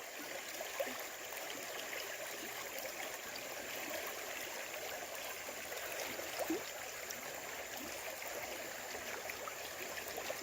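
Creek running high, its water flowing steadily over rocks and gravel, with a couple of faint knocks.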